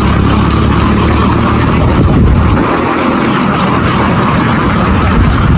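An engine running steadily and loudly, with a low, even drone.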